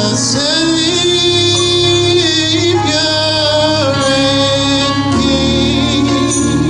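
A gospel song in church: a singing voice holding long, wavering notes over sustained instrumental chords.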